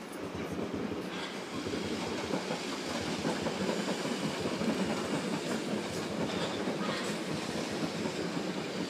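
South West Trains suburban electric multiple-unit train passing close by, its wheels clattering over the rail joints and points, getting louder about a second in as it draws near and staying loud while it runs past.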